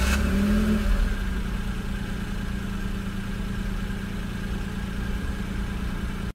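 A car engine running, loudest in the first second with a slight rise in pitch, then settling into a steady run that cuts off abruptly at the end.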